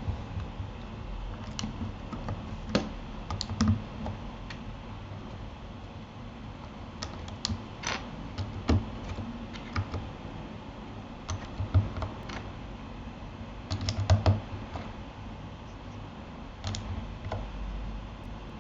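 Keys being typed on a Keychron K8 mechanical keyboard: irregular keystrokes, some single and some in quick little runs, with pauses between.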